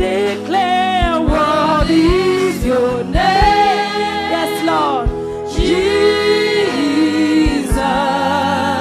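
Live gospel worship music: singers holding long, sliding sung notes over keyboard and a steady kick-drum beat.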